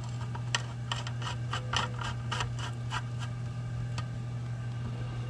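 Irregular small clicks and scrapes of hardware being handled while an SSD is fitted into a desktop computer case, over a steady low hum.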